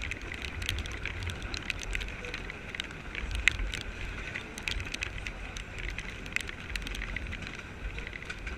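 Rain pattering and crackling against the camera as irregular sharp ticks, over a low wind rumble.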